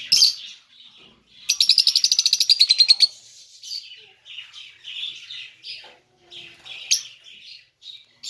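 Small pet parrots chirping and chattering, with a loud, fast run of rapid chirps starting about a second and a half in and lasting about a second and a half, and a sharp single call near the end.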